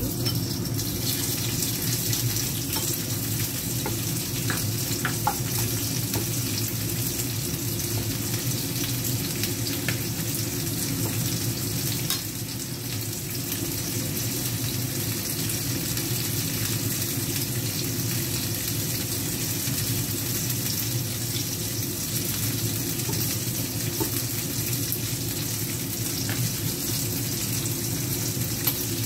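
Peeled shrimp sizzling in hot oil in a frying pan, a steady crackling hiss that starts as they are tipped in, with a few light taps of the spatula as they are turned.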